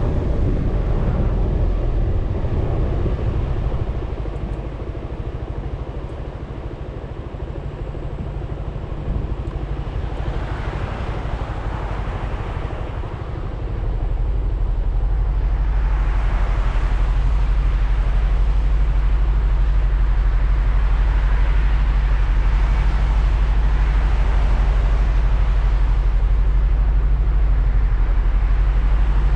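Suzuki Burgman 400 scooter's single-cylinder engine running under way, with road and wind noise on the bike-mounted camera. It quietens for several seconds, then comes back louder and holds a steady hum for the second half.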